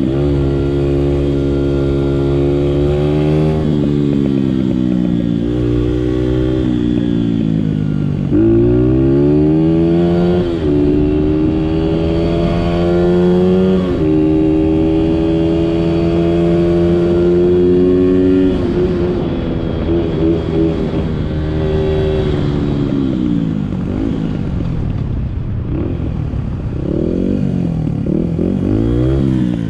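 Small Honda 50cc dirt bike engine under way, its pitch climbing, holding and falling with the throttle, with several sudden steps. Near the end the pitch wavers up and down quickly as the throttle is worked over rough ground.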